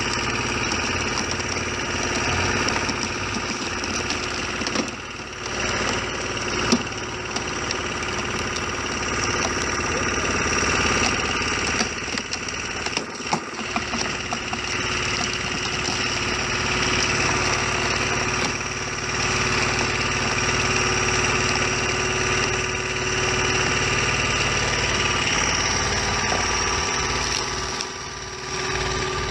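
An engine-driven machine running steadily.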